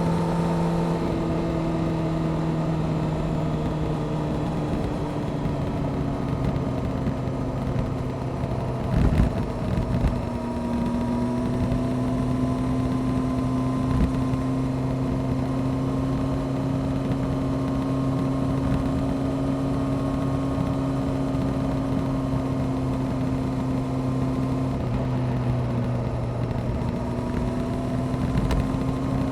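Honda CBR600F Sport's inline-four engine running at steady cruising revs, heard from on board over rushing wind and road noise. Its note shifts about nine seconds in, then holds steady again.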